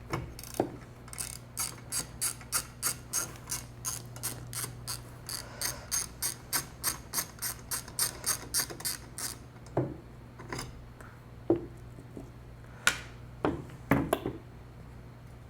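A ratchet clicking at an even pace, about three clicks a second, as a fastener is turned during disassembly, stopping about nine seconds in. A few separate knocks follow.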